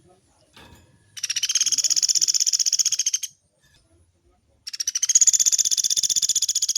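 Pelatuk beras woodpecker giving two long, fast rattling trills, each about two seconds, a long roll of the kind used as a tutor call for captive birds.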